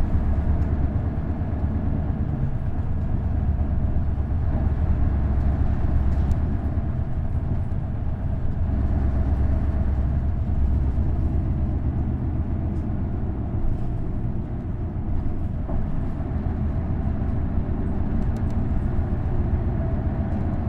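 Isuzu Erga bus's V8 diesel engine with a direct-drive five-speed gearbox, running under way with a steady, deep drone; the engine note eases a little a couple of times.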